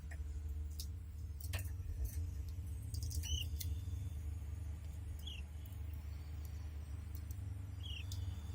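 Pet canaries giving three short, high chirp notes a couple of seconds apart, with a few sharp clicks and taps from the cage, over a steady low hum.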